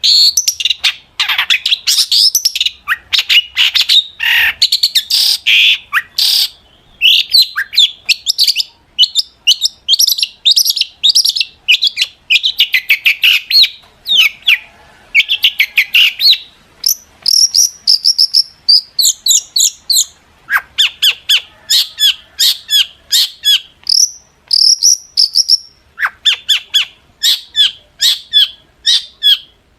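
Long-tailed shrike (cendet) singing a fast, continuous chattering song of sharp, high notes, several a second, broken only by brief pauses.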